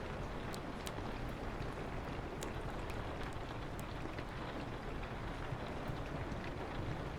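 Steady rain on a window with a low rumble underneath, and a few sharp pops from a crackling wood fire, most of them in the first half.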